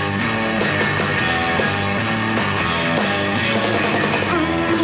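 Rock band playing live: guitars and drums in an instrumental stretch between sung lines, the chords changing about twice a second under a steady drum beat.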